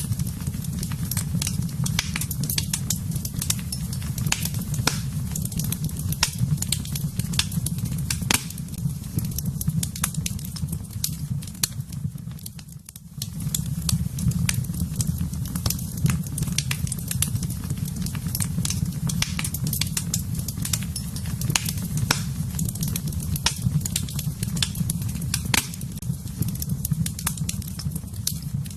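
Fire burning in a fireplace: a steady low rumble of flames with frequent sharp, irregular crackles and pops. The sound dips briefly about halfway through.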